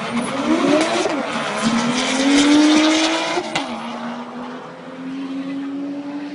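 Drag car engine at full throttle down the strip, its pitch climbing, dropping sharply at an upshift about three and a half seconds in, then climbing again. The sound fades as the car pulls away.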